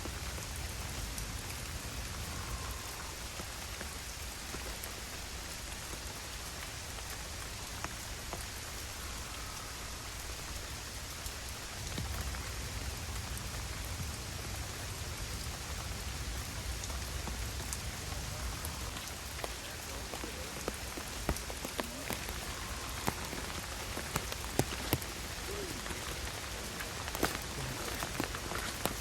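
Steady rain falling, with individual drops landing as sharp separate ticks that grow more frequent in the second half, over a low rumble.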